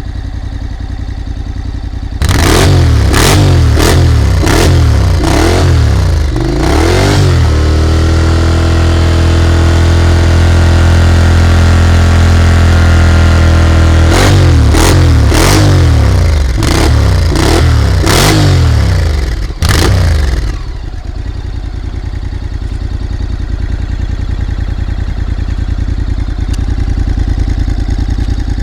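Honda motorcycle engine running through a GPR Powercross slip-on exhaust with its dB killer fitted: idling, then several quick revs, a steady high-rev hold of about six seconds, more quick revs, and settling back to idle for the last several seconds.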